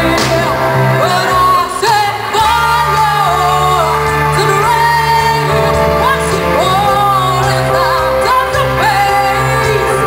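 Live band playing a pop song, with a woman singing the lead vocal in sliding, held notes over a steady bass line.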